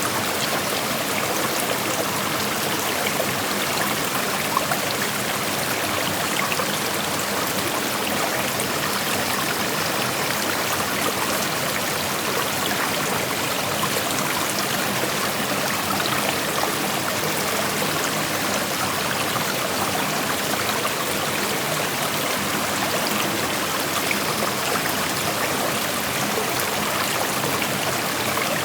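A creek flowing over rocks: a steady rush of water with small splashes and trickles scattered through it.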